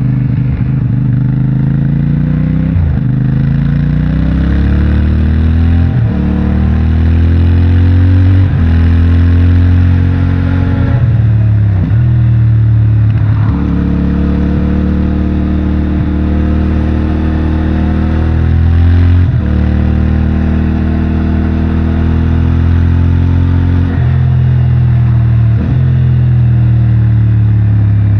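CFMOTO 450MT's stock-exhaust parallel-twin engine pulling hard through the gears. Its pitch climbs and then drops sharply at each shift, about ten times over the stretch.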